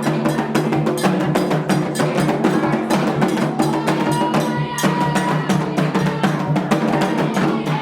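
Candomblé ritual drumming: atabaque hand drums playing a fast, continuous rhythm with a metal agogô bell keeping time.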